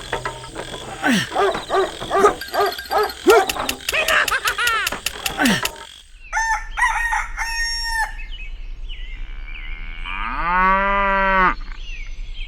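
Chickens clucking and calling. After a sudden cut halfway through, a rooster crows once, a long call near the end.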